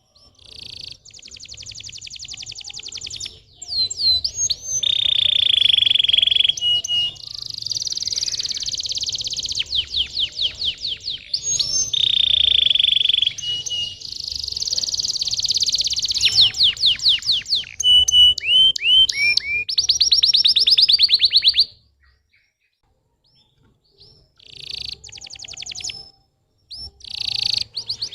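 Canary singing: fast rolling trills, rapid strings of repeated chirps and short held whistled tones. It stops for about three seconds in the later part, then starts again.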